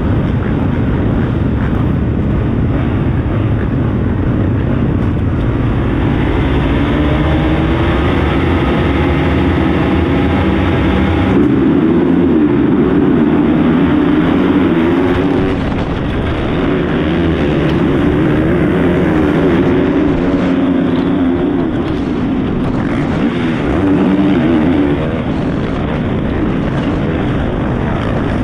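Honda CRF450R motocross bike engine, heard from onboard, revving hard and dropping repeatedly as the rider accelerates, shifts and shuts off for corners and jumps.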